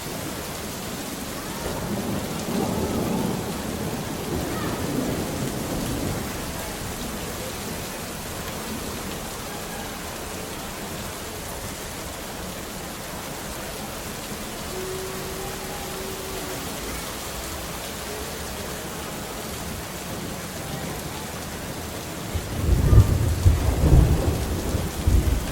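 Steady rain falling with rolling thunder: a low rumble a couple of seconds in and a louder thunder rumble near the end.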